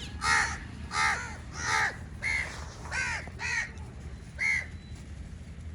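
Crows cawing: seven harsh caws in a series, about one every half second to a second, stopping near the end.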